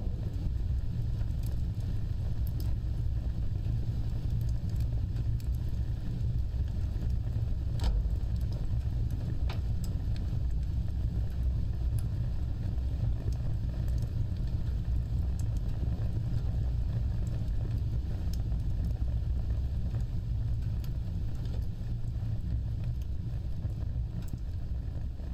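Wood fire burning: a steady low rumble of flames with scattered sharp crackles and pops, one louder pop about eight seconds in.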